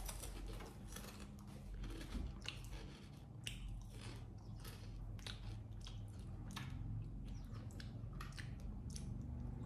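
A monkey crunching and chewing potato chips: a string of irregular sharp crunches and clicks.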